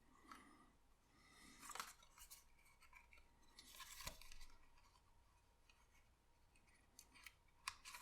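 Mostly near silence, broken by a few faint rustles and light clicks of paper pieces being handled, with the clearest about two and four seconds in.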